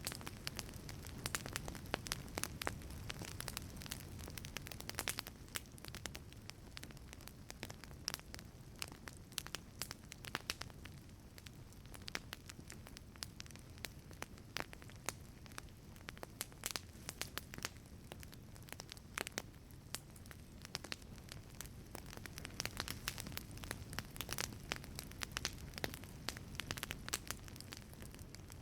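Wood fire crackling in a wood-fired pizza oven: a steady low roar of flame with frequent sharp pops and snaps from the burning wood.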